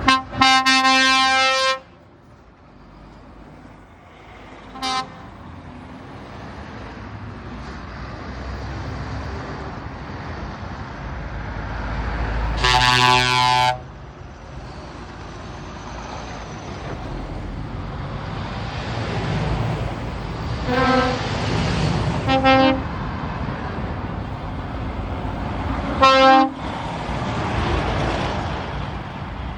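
Truck air horns sounding as trucks drive past over the running of their engines: a long blast at the start, a short toot about five seconds in, another long blast around halfway, then two quick toots and one more short toot near the end.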